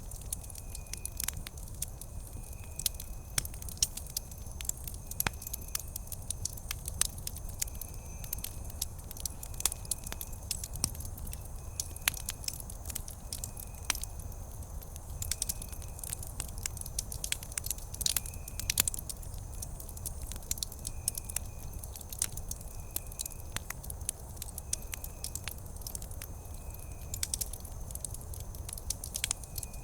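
Campfire crackling: frequent irregular sharp pops and snaps over a low steady rumble.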